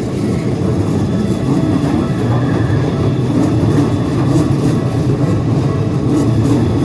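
Keikyu electric train running through the level crossing: a steady low rumble of wheels on the rails, with faint ticks from the rail joints in the second half.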